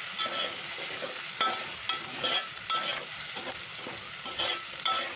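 Chopped onions, tomatoes and spices sizzling in oil in a metal pot while a metal spoon stirs them. The spoon scrapes against the pot in repeated strokes, several giving a short metallic ring.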